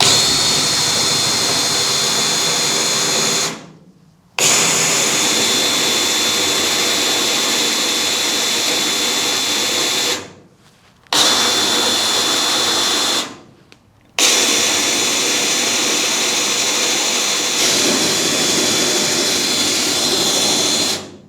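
Power drill running in four long runs with short pauses between, each starting sharply and winding down, as it enlarges an engine-mount bolt hole to fit an AN4 bolt.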